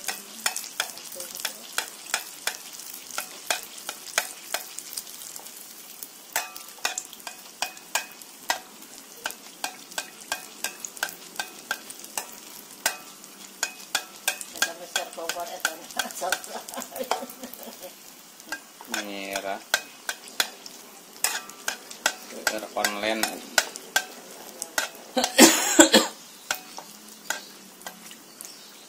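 Kue cucur batter frying in hot oil in an aluminium wok: steady sizzling with frequent sharp clicks of a metal ladle and a bamboo skewer against the pan as the batter is spooned and poked. A louder burst of noise comes about three quarters of the way through.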